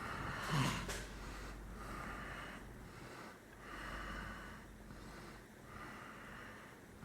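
A person breathing heavily and rhythmically close to the microphone, with a louder snort about half a second in.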